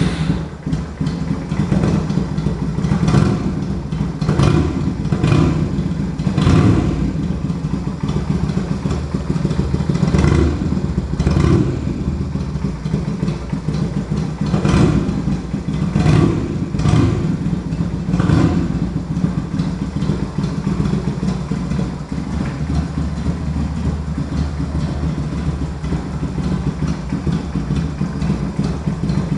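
Yamaha Virago 250 (XV250) air-cooled V-twin running through its exhaust, blipped repeatedly for the first twenty seconds or so, then settling to a steady idle.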